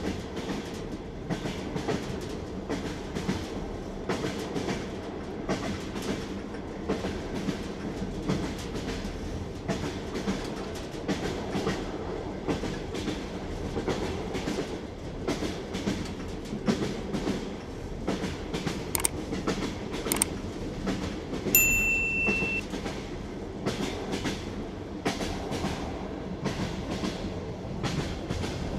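Train wheels clattering over rail joints: a steady clickety-clack of knocks over a continuous rolling rumble. About three quarters of the way through, a brief high steady tone sounds for about a second.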